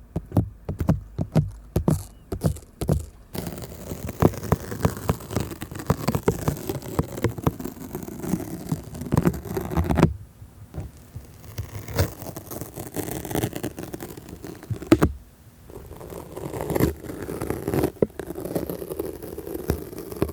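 Stickers on a close microphone, first rubbed and tapped in quick separate strokes, then from about three seconds in peeled off it with a continuous sticky scraping and tearing sound that breaks off briefly twice.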